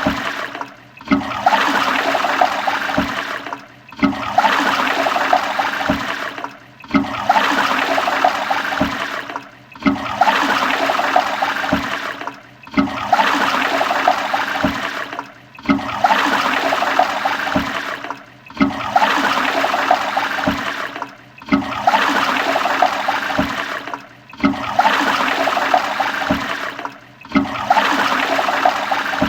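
Toilet flushing: a rush of water that starts sharply and fades away, repeated over and over about every three seconds.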